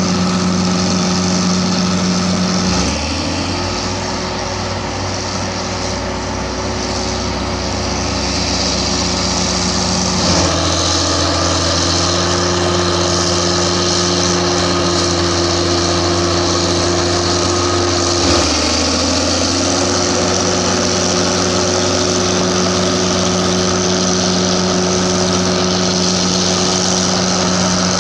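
Diesel engine of a heavy earthmoving machine running steadily under work, its note dipping and recovering about three seconds in and again near eighteen seconds in, with a shift in pitch about ten seconds in, over a continuous high hiss.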